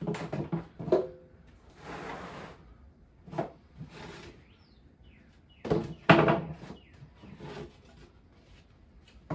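A board and parts being handled and set down on a shop bench: a series of clunks and knocks with scrapes and a short rustle, the loudest pair of clunks about six seconds in.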